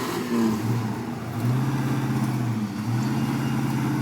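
Vehicle engine revving under load in three held pushes at a steady pitch, with short breaks between them, during an attempt to pull a stuck truck out of mud.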